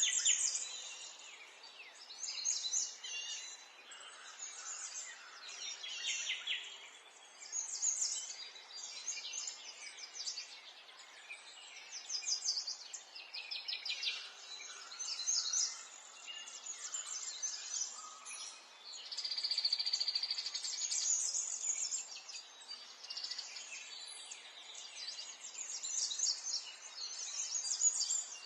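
Small songbirds chirping and trilling, many short calls overlapping, with a denser spell of chirping about twenty seconds in.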